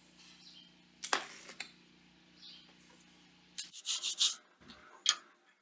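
Scraping and rubbing as small metal parts are handled, with a sharp knock about a second in, a cluster of scrapes a little past halfway and another sharp knock near the end, over a low steady hum that stops a little past halfway.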